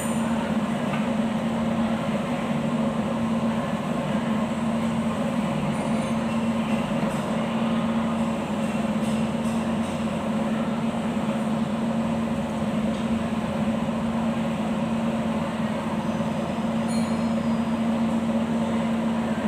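A machine runs steadily with a strong, even hum, then cuts off suddenly right at the end.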